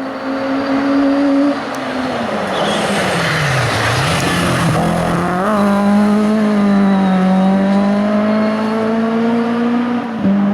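Race car engine running hard on a hill climb. Its revs drop steeply about two seconds in, bottom out around four seconds as the car goes loudest past, then climb again and hold steady at high revs. A quick gear change comes near the end.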